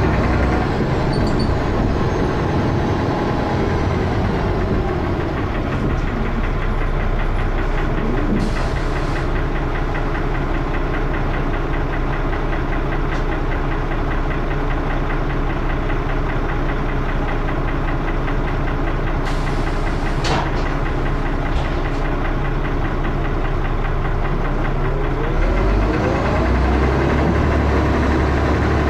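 Dennis Arrow double-decker bus engine running with a loud, regular knocking and heavy thrash. Near the end the note deepens and a rising whine comes in.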